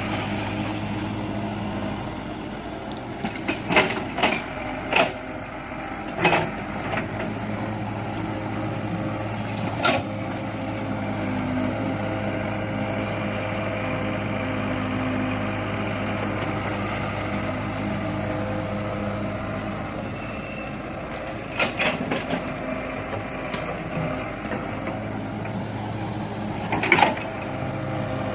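Excavator's diesel engine running steadily while it digs, with a handful of sharp metallic clanks and knocks from the bucket and arm, a cluster of them a few seconds in and more near the end.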